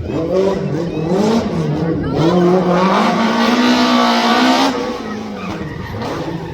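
Rally car engine accelerating hard, its pitch climbing and dropping back at each gear change. It then holds a loud, high note for a couple of seconds before falling away about three-quarters of the way through.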